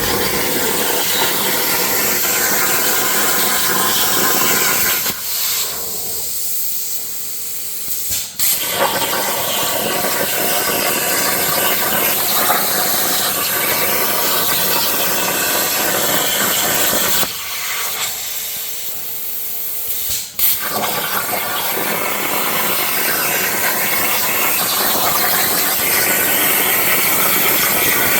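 Plasma torch on a CNC plasma table cutting steel with a loud, steady hiss. The hiss drops away twice for about three seconds and restarts each time with a sharp pop as the arc fires for the next cut.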